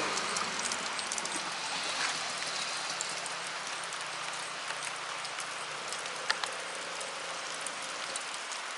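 Steady rain falling and pattering, with scattered louder drops. The motorized bicycle's small two-stroke engine fades out in the first second.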